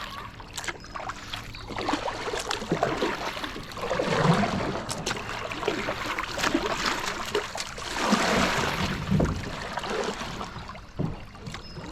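Kayak paddle strokes, the blade dipping and splashing with water gurgling, in a few swells that are loudest about a third of the way in and again past the middle.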